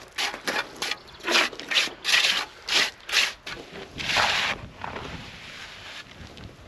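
A hand tool scraping rhythmically through concrete or sand mix: about ten rough strokes at two to three a second, a longer drawn stroke about four seconds in, then the strokes stop.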